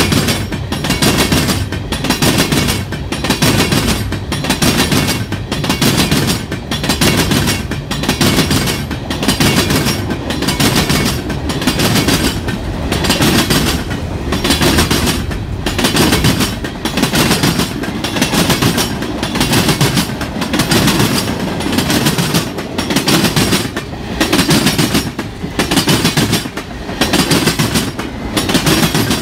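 Freight cars rolling past close by: steel wheels clacking over the rail joints in a steady rhythm about once a second, over a continuous rolling rumble.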